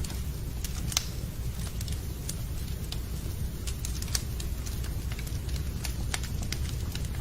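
Wood fire crackling in a fireplace: irregular sharp pops and snaps over a steady low rumble of the burning fire, with one louder pop about a second in.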